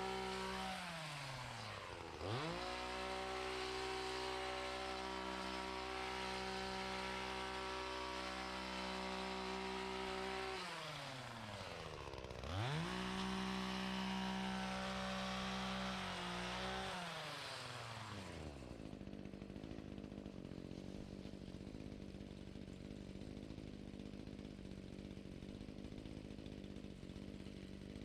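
Small two-stroke engine of handheld lawn equipment running at high throttle, eased off and revved back up twice, then throttled down to a steady idle about two-thirds of the way in.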